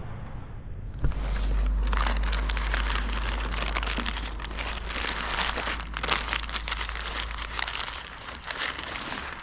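Dense crackling, rustling noise right against the microphone, starting suddenly about a second in, with a deep rumble underneath.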